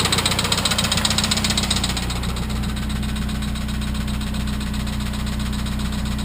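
Saab 9-3 Viggen's turbocharged four-cylinder engine idling with a rapid, even knocking clatter, the fault the owner is showing. About two seconds in the sharp clatter drops away and the engine settles into a steadier, lower hum.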